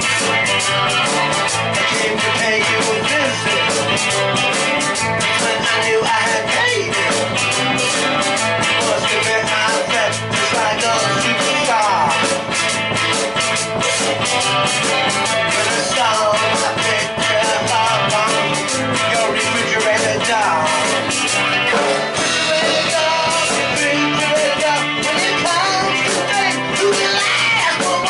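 Live rock band playing an upbeat song, with electric guitar and drums.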